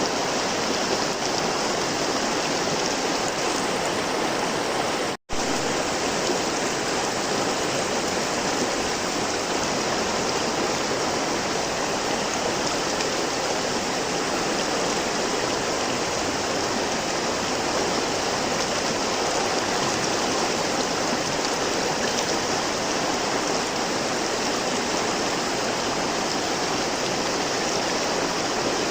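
River water flowing in a steady, even rush. The sound drops out for an instant about five seconds in, then carries on unchanged.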